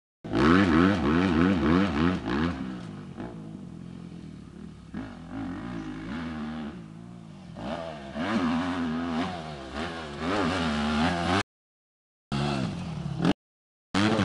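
Motocross bike engine revving hard and unevenly, its pitch swinging up and down many times a second as the throttle is worked. It is loudest in the first two seconds and again from about eight seconds in, and cuts out abruptly twice near the end.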